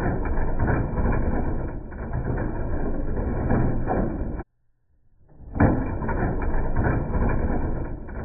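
Slowed-down audio of a Hot Wheels Monster Trucks big rig toy rolling and clattering along a plastic track, heard as a low, muffled rumble. It plays twice, cutting off abruptly about four seconds in and starting again about a second later.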